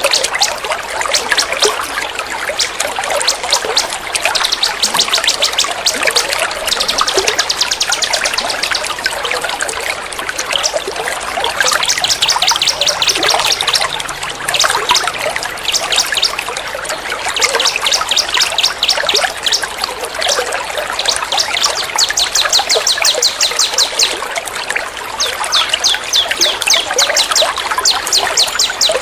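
Songbird masteran recording: fast, rattling high-pitched bird trills repeated in bursts of a second or two, laid over continuous trickling water.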